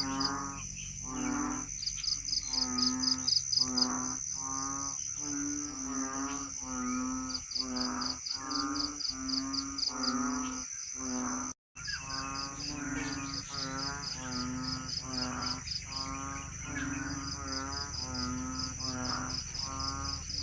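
An unseen animal calling over and over, about one and a half wavering calls a second, over a steady high insect drone and a pulsing high trill. The sound cuts out briefly once about halfway through.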